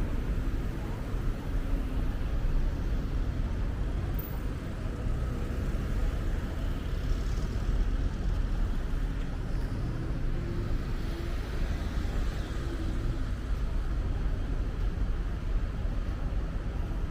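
City street traffic: a steady rumble of passing cars and engines.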